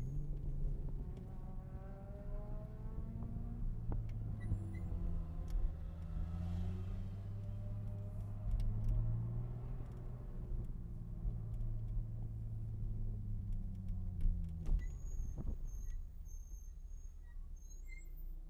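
Toyota GR Supra (A90) engine heard from inside the cabin, running at low revs around 2,000 rpm as the car rolls slowly, with its pitch rising and falling gently. About fifteen seconds in, a couple of sharp clicks are heard and the engine settles to a steady idle as the car comes to a stop.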